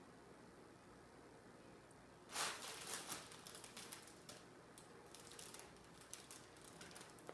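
A cat moving about inside a fabric play tunnel: faint rustling that breaks into a louder rustle about two seconds in, followed by a run of irregular light crackles and ticks.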